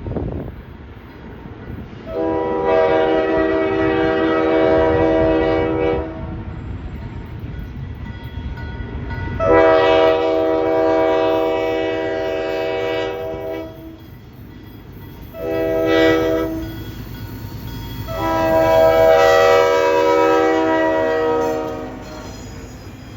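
Diesel locomotive horn on MHWA M-420 No. 2042 sounding the grade-crossing signal: two long blasts, one short, and one long. A steady low rumble of the passing train runs underneath.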